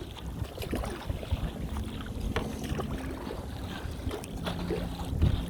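Wind rumbling on the microphone, with a faint steady low hum underneath that comes and goes.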